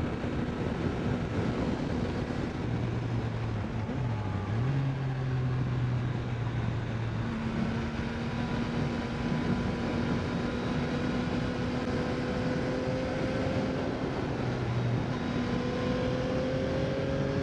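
Yamaha MT-09's three-cylinder engine pulling steadily at road speed, with wind and tyre noise underneath. Its pitch dips briefly about four seconds in, then creeps slowly upward as the bike gathers speed.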